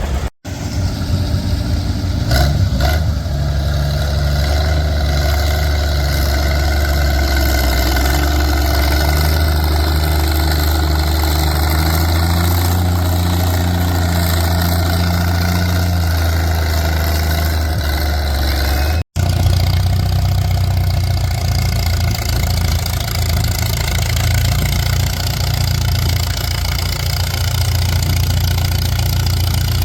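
Antique farm tractor engine running steadily at a low, even pitch, the kind of sustained pull a tractor makes dragging a weighted stone boat. The sound breaks off for an instant twice, about half a second in and about two thirds of the way through, and the engine carries on after each break.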